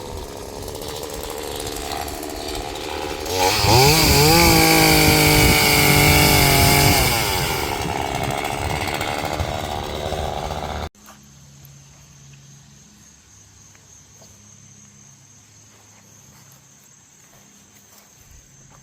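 Chainsaw cutting a fallen tree's limbs. It runs at lower revs, is revved up to full throttle about three seconds in for a few seconds, and drops back. It cuts off abruptly about eleven seconds in, after which there is only a faint background.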